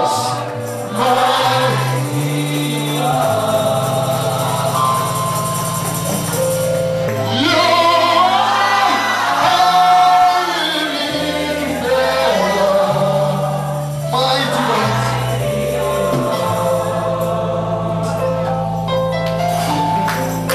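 Live gospel praise music: voices singing over a keyboard and bass, with held bass notes changing every second or two.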